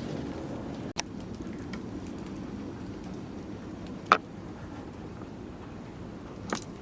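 Campfire burning with a steady low rush and a few sharp pops, the loudest about four seconds in.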